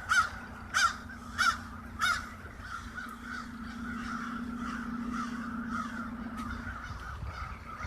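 A huge flock of crows cawing: four loud caws about two-thirds of a second apart in the first two seconds, over a constant chorus of many fainter caws from the rest of the flock.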